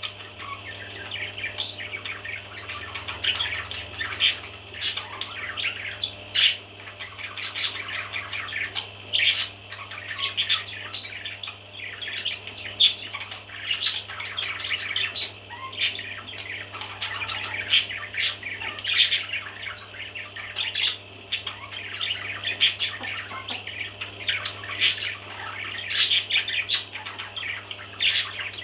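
A group of baby parrots chirping and squawking nonstop, a busy chorus of short high calls overlapping one another. A low steady hum runs underneath.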